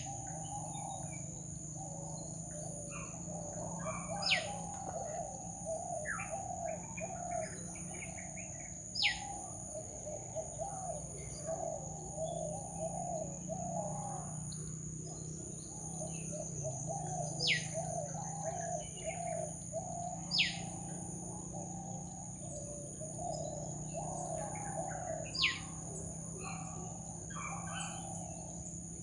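Jungle birds calling. A sharp, quickly falling whistle recurs every few seconds and is the loudest sound, over a continuous low warbling chorus and a steady high insect drone.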